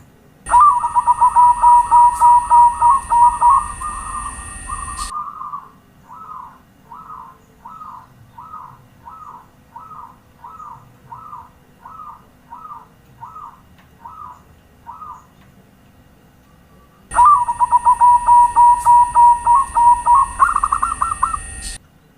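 Zebra dove (perkutut) cooing: two loud stretches of rapid trilled cooing that start and stop abruptly, with a softer run of short single coos, about two a second, between them.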